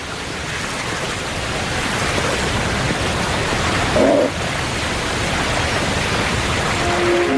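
Rushing whitewater of a river at falls, a steady wash of water that grows slightly louder, with a short pitched sound about four seconds in.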